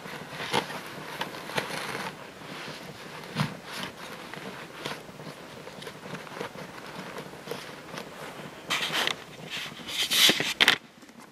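Crinkling, rustling and small clicks of a vacuum cleaner's dust bag being handled and fitted back into the machine, with a louder clatter near the end that stops abruptly.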